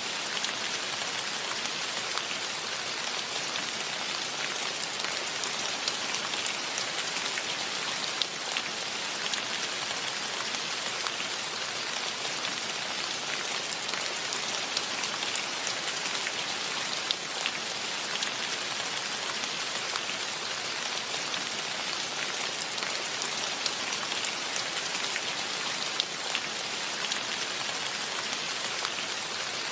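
Steady rain falling and pattering on surfaces, with a constant hiss and many small scattered drop ticks.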